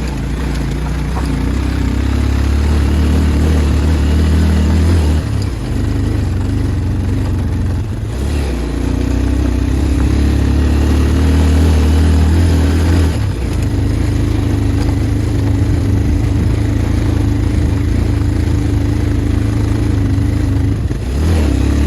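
Motorcycle engine running while riding over a rough track, its note shifting up and down a few times as the speed changes.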